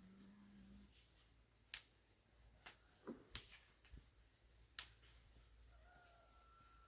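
Near silence, broken by a handful of faint, sharp, isolated clicks or taps spread a second or so apart. A low hum cuts off about a second in.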